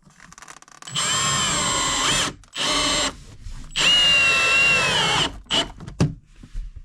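Power drill run in three bursts, its motor pitch rising and dipping under load, followed by a few sharp knocks near the end.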